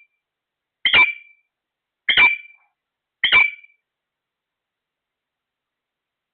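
A parrot giving three short, harsh squawks about a second apart, then falling silent.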